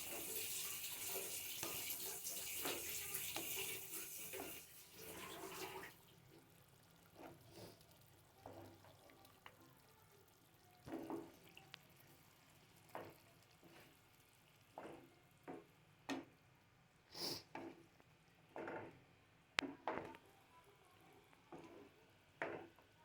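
Water running from a kitchen tap, shut off suddenly about six seconds in. After that come scattered short, light knocks and clinks, one every second or two.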